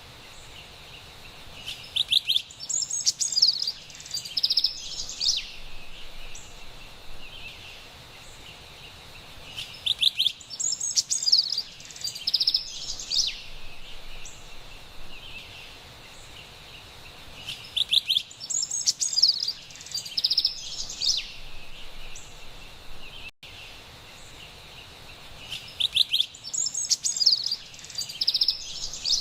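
Carolina wren singing: a loud, rapid song phrase repeated four times, about eight seconds apart, over a steady high hiss of forest background.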